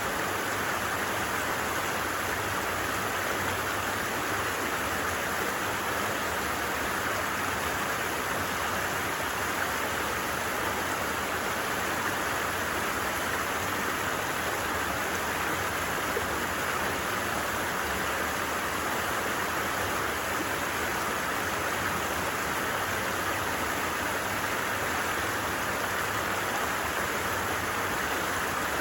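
Steady rush and babble of a flowing creek, an even wash of water noise with no breaks.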